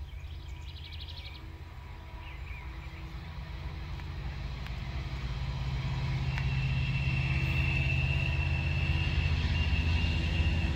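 Diesel freight locomotives approaching from a distance, a low rumble that grows steadily louder, joined about six seconds in by a steady high-pitched whine. A bird chirps briefly near the start.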